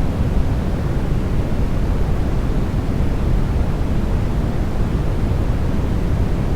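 A steady, unchanging white-noise track for sleep: an even rush of noise with most of its weight in the low end, deeper than a bright hiss.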